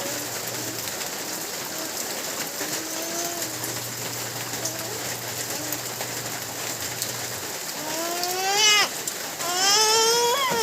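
Steady heavy rain pouring and splashing. Near the end, two loud rising cries break out over it.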